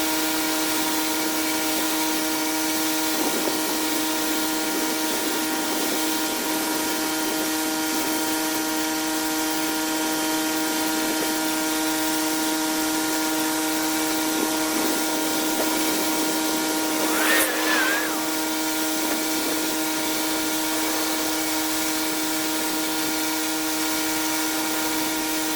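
Pressure washer running steadily: a constant machine drone with a steady pitch under the hiss of the water spray. About two-thirds of the way through, a brief warbling chirp rises above it.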